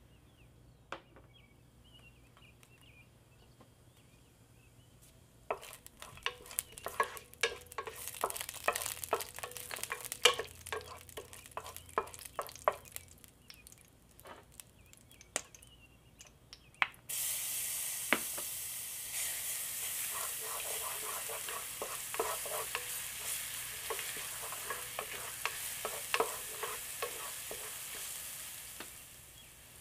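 Whole spices (cinnamon sticks, cardamom pods, cloves and bay leaves) crackling in hot oil in a pot, with irregular sharp pops starting a few seconds in. About halfway through, a steady, louder sizzle sets in suddenly as finely chopped aromatics hit the oil and are stirred with a wooden spoon. The sizzle eases near the end.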